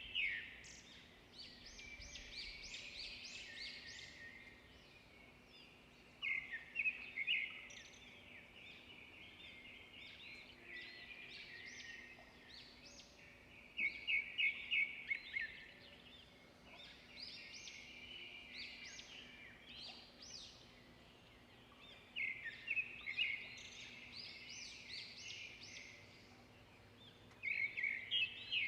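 Songbirds singing: a loud, quick song phrase every six to eight seconds, about five in all, with quieter twittering in between.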